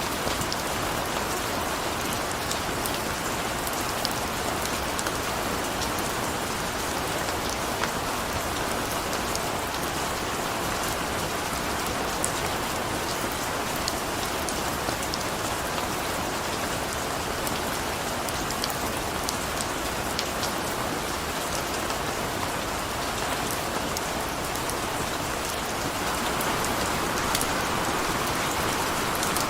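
Steady rain falling, an even hiss with many small drop patters, slightly heavier near the end.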